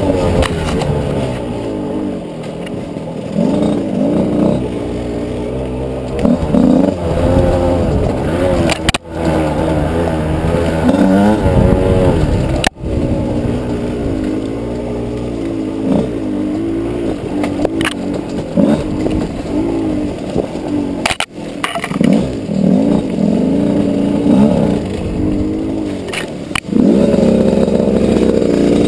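Fantic enduro motorcycle engine revving up and down as the throttle is worked on a rough, steep off-road trail. The engine note breaks off sharply three times, and near the end it holds at steady revs.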